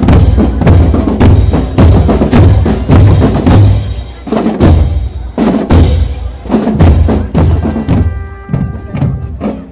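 Marching drum band playing: bass drums beating a steady pulse under snares and other percussion. Near the end the drumming thins out and a held pitched note sounds over it.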